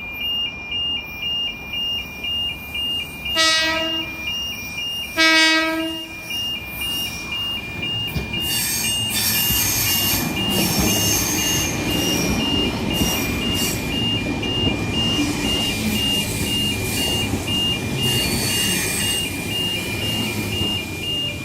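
An electric suburban train (set S146) sounds two horn blasts, then pulls in with a rising rumble and high-pitched brake squeal. A rapid two-tone electronic warning beep repeats throughout.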